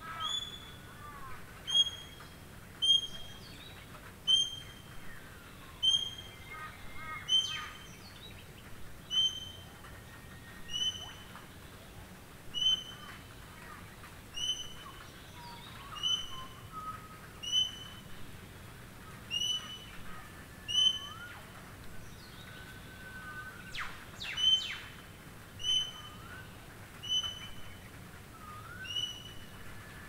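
A songbird repeating one short, high call about three times every four seconds, with other birds calling faintly in between. Underneath runs a steady hiss of light rain.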